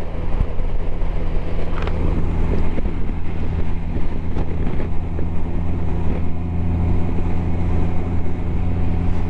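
Motorcycle engine running at a steady cruising speed, with wind noise on the microphone.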